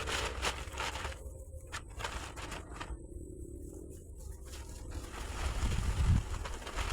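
Irregular scraping and crinkling of materials being handled, with a few dull low thumps near the end, over a steady low rumble.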